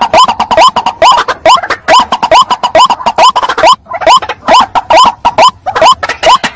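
White-breasted waterhen (ruak-ruak) calling: a loud, rapid run of short repeated notes, about four or five a second, with a couple of brief breaks. This is a lure recording, played to draw waterhens in.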